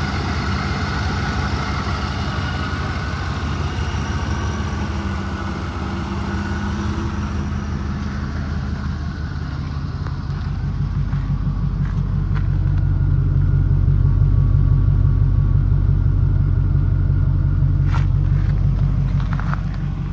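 2001 Chevrolet Suburban 2500's V8 engine idling steadily. About ten seconds in, its sound turns deeper and louder, with a few light clicks near the end.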